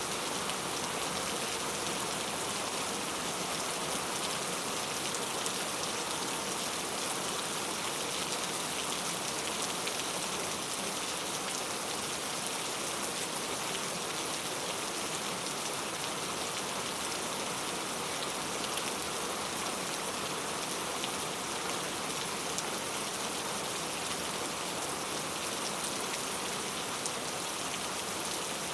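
Heavy rain falling steadily on hard street surfaces, an even hiss with fine drop patter and no let-up.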